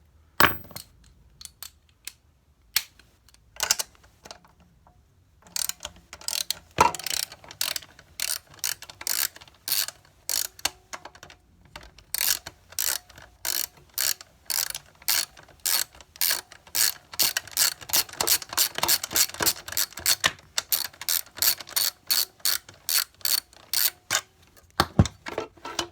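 Socket ratchet clicking as a 10 mm bolt is turned out with a socket and extension: a few separate clicks at first, then long runs of quick clicks, with a sharper knock about seven seconds in and another near the end.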